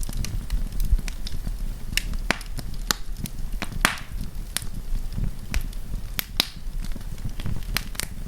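Wood campfire crackling, with sharp, irregular pops and snaps over a low rumble. The loudest pop comes about four seconds in.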